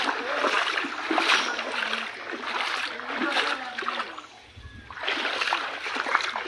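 Floodwater splashing in repeated surges, roughly one a second, with a brief quieter stretch just past the middle. Faint voices can be heard in the background.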